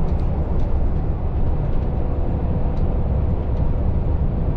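Heavy truck on the move: a steady, loud rumble of engine and road noise, heaviest in the low range.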